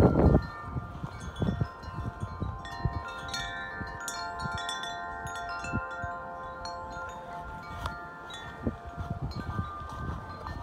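Wind chimes ringing in the wind, struck now and then so that several long tones ring on and overlap. A gust of wind on the microphone fades out about half a second in.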